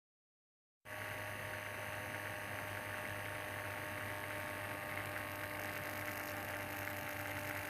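Steady electrical hum with an even hiss, starting abruptly just under a second in after total silence and holding unchanged.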